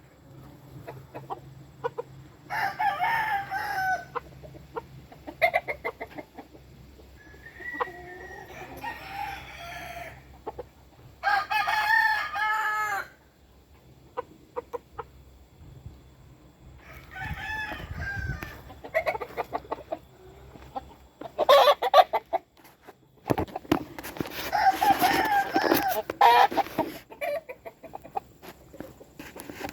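Game-fowl roosters crowing several times, the longest crows lasting over a second, with hens clucking between them.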